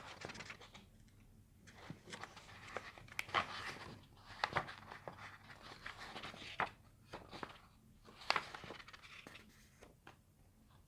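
Faint paper rustling with scattered clicks as book pages are handled and turned, several sharper crackles spread through.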